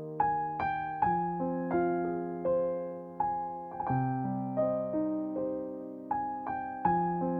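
Background music: slow, gentle piano, single notes and chords struck about once or twice a second, each ringing out and fading.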